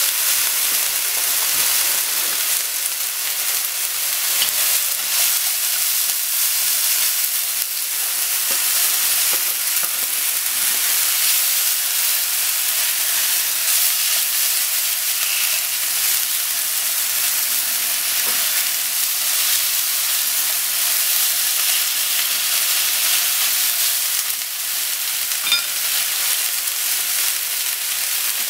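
Kakinokitake mushrooms, sliced onion and thin-sliced raw meat sizzling steadily in a hot non-stick frying pan, with chopsticks stirring through the food now and then.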